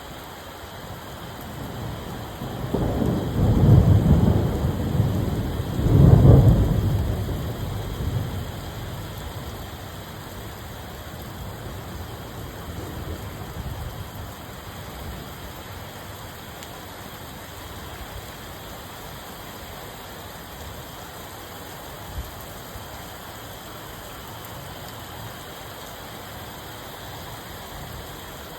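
Steady rain falling, with a roll of thunder that builds a couple of seconds in, peaks twice and rumbles away over the next several seconds.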